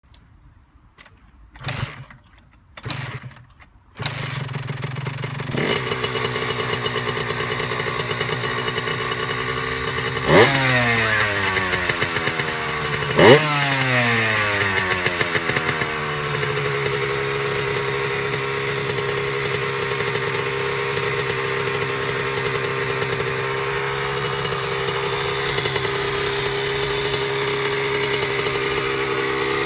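Honda 80cc engine cold-started: two short attempts, then it catches about four seconds in and runs. It is revved twice with quick throttle blips, then settles into a steady idle.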